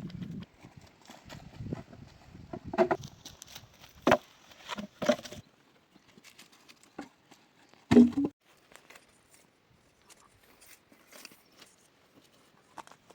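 A few irregular, separate knocks and thumps, the loudest about eight seconds in, with fainter scuffing and rustling between them.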